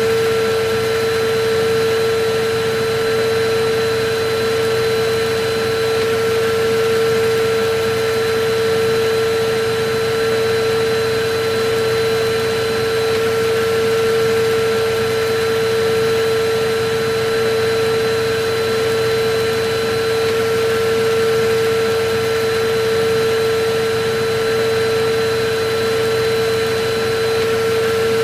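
Electric vacuum cleaner running steadily, a constant motor whine over an even rush of air.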